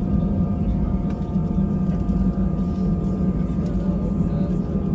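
Cabin noise inside an Airbus A320-200 with its jet engines running: a steady low hum with a steady whine on top.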